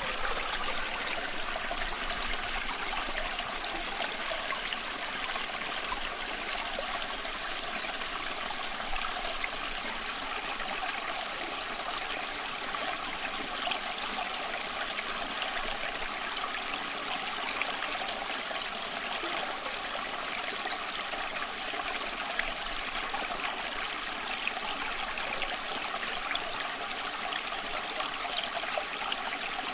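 A small stream running and trickling steadily, water bubbling over stones with a constant rushing babble.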